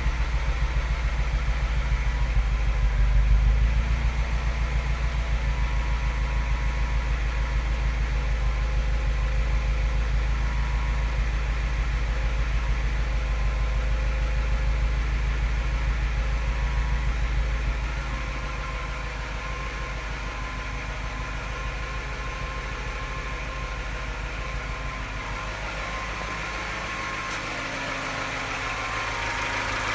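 Engine idling with raised revs; a little over halfway through the revs fall and it settles into a quieter, lower idle. At the lower idle there is a tap and a slight misfire, which makes it sound like a London taxi.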